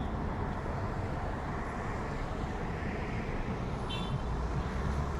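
Steady city road-traffic noise with a low rumble. A brief high-pitched tone sounds about four seconds in.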